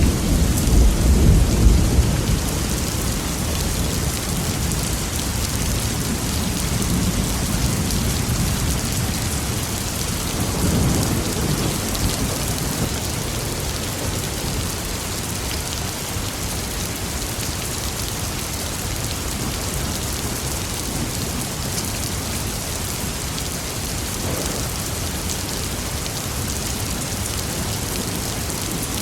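Steady heavy rain falling, with low rolls of thunder rumbling in the first couple of seconds and again, more faintly, about ten seconds in.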